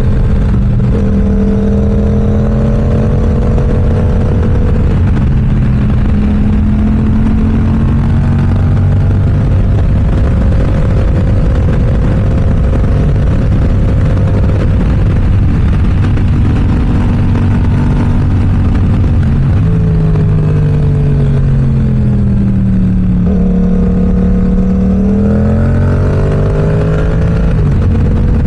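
Yamaha R7's parallel-twin engine through an M4 aftermarket exhaust while riding, with steady wind and road noise. The engine note holds cruising revs with small changes in pitch, falls gradually about twenty seconds in as the bike slows, then rises again near the end as it accelerates.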